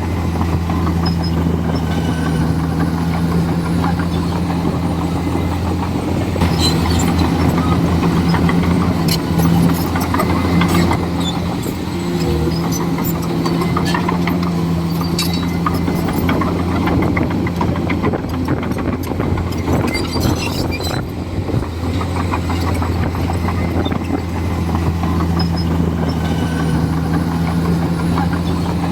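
Komatsu D41E bulldozer's diesel engine running steadily, a little louder for a few seconds about a third of the way in. Scattered sharp clanks and cracks come through the middle stretch.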